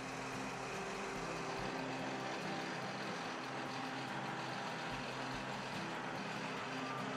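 Case IH STX480 tractor's diesel engine idling steadily.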